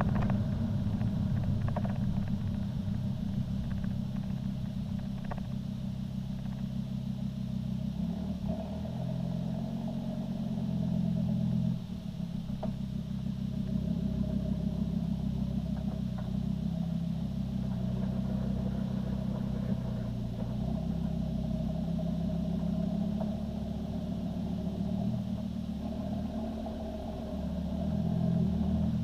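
Volvo C30 D5's five-cylinder turbodiesel running through a Powerflow cat-back exhaust with the diesel particulate filter deleted: a steady low exhaust drone, which drops suddenly about twelve seconds in and swells again near the end.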